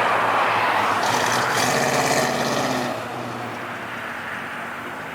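Dodge Dart's engine running loud as the car drives past, with a brief hiss about a second in; the sound drops off about three seconds in.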